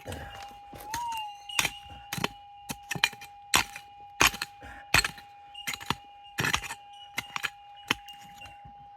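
Gold-prospecting metal detector holding a steady electronic tone, with a brief rise in pitch about a second in, as it sounds off over a target. Over it come repeated sharp knocks and clinks of digging in stony ground.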